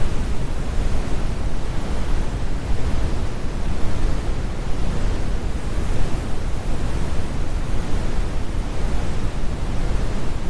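Synthetic brown noise: a steady, deep rumble with most of its weight in the low end and little hiss, unchanging throughout.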